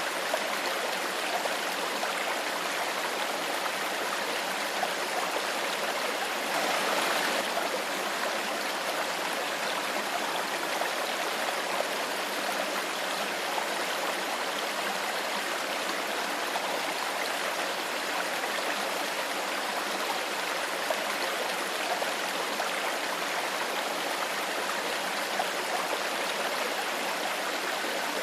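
Stream water flowing steadily, a continuous rush and babble of water, with a brief louder surge about seven seconds in.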